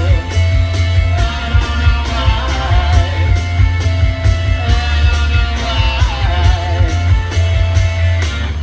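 Rock band playing live and loud, with heavy bass, a steady drum beat, electric guitars and a singing voice.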